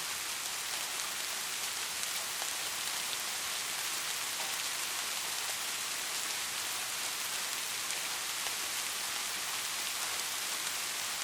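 Steady rain falling, an even high hiss with scattered drop ticks.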